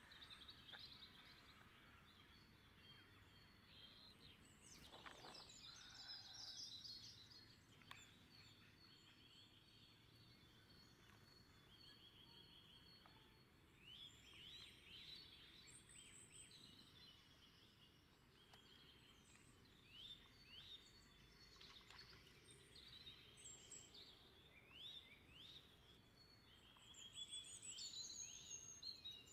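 Faint songbird calls and song: many short chirps and quick trills from several birds, scattered throughout and louder near the end, over a low steady background.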